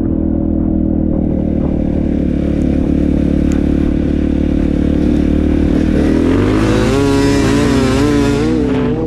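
KTM dirt bike engine running at a steady pitch, then revving up and down from about six seconds in, with a rush of noise over it for a couple of seconds.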